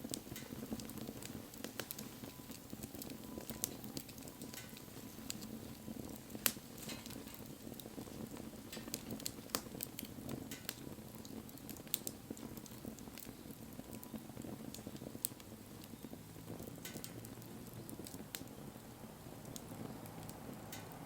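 Wood bonfire burning: a steady low rush of flames with scattered sharp pops and crackles from the burning wood, a few louder than the rest.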